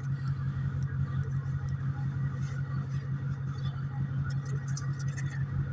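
A motor running steadily: a low hum with a fast, even pulse.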